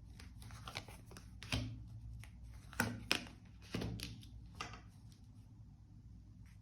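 Tarot cards handled on a table: about half a dozen short, soft card slaps and rustles at irregular intervals, over a faint steady low hum.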